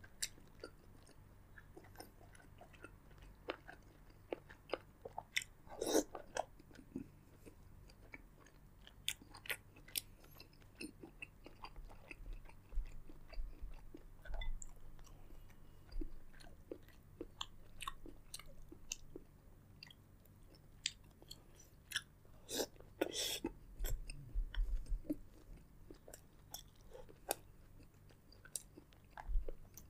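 Close-miked eating of a seafood boil: chewing and biting with many scattered wet clicks and smacks, and two louder clusters of crackles, about six seconds in and again past the two-thirds mark.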